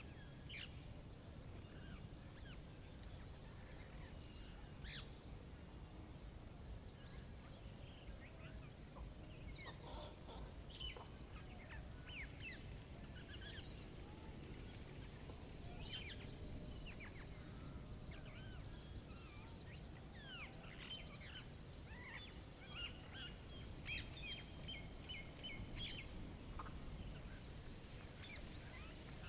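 Many small birds chirping and calling, short sweeping notes overlapping, with a fast high trill twice, over a faint low steady rumble.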